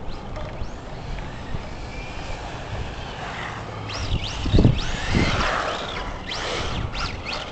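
Brushless electric motor and gears of a Tamiya TT-01E radio-controlled car running on a 2S battery, whining up and down in pitch in several quick bursts of throttle and braking from about four seconds in. Wind buffets the microphone at the same time.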